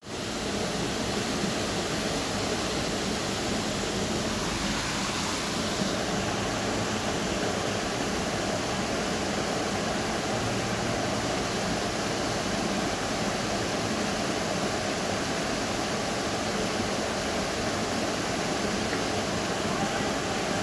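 Steady, constant rush of a tropical waterfall, an even wide hiss of falling water.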